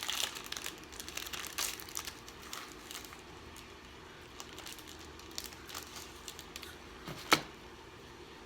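Candy-bar wrapper crinkling and tearing as it is opened, dense for the first three seconds and then in scattered rustles, with one sharp crack about seven seconds in.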